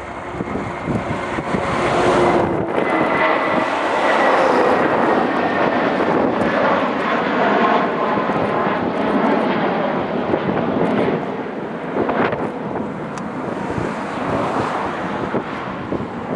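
Jet airliner's engines passing close by: a wide rushing noise with a faint whine that sags slightly in pitch as it goes past. It builds over the first two seconds, holds, then eases a little toward the end.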